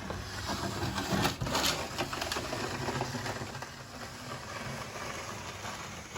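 John Deere X758 garden tractor's small diesel engine running steadily while the tractor makes a pass through deep snow, with louder crunching and scraping bursts about a second in.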